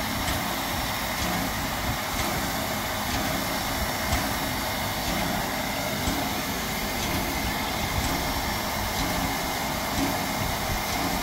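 Steady rolling noise of a vintage passenger coach riding on the rails, with faint light ticks about once a second.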